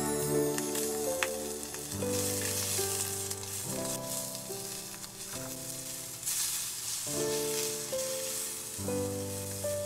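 Peeled shrimp and zucchini slices sizzling as they fry in a frying pan, a steady high hiss. Background music with slow sustained notes plays over it.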